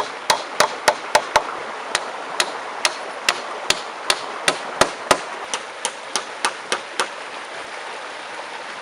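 Quick, regular hammer blows, about three a second, stopping about seven seconds in, over the steady rush of a flowing stream.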